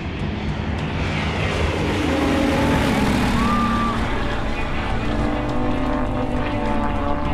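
Display aircraft flying past overhead: a loud rushing engine noise builds to a peak about three seconds in, its pitch dropping as it passes, then settles into a steadier drone.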